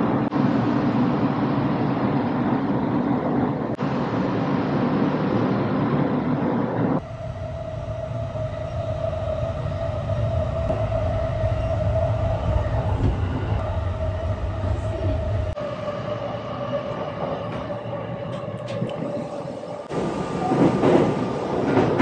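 Steady running noise heard inside a Sunrise Express sleeper train car, a rumble with a steady hum. The tone of it changes abruptly about seven seconds in, and it grows louder and rougher near the end.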